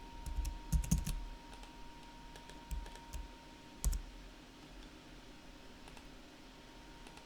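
Computer keyboard and mouse clicks: a quick run of clicks in the first second, then a few scattered single clicks. A faint steady high-pitched hum underneath.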